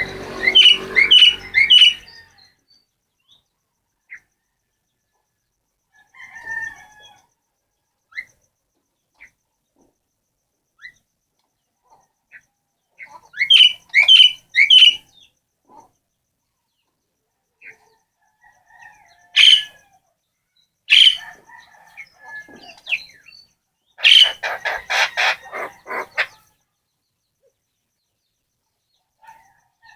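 A pet bird calling in scattered bursts: two groups of three sharp rising notes, a couple of single loud calls, and a harsh, rapid chatter lasting about two seconds near the end.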